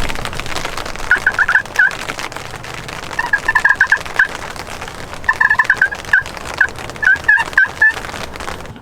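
Wild turkey gobbler gobbling four times, each a rapid rattling burst of notes lasting about a second, over the steady patter of rain.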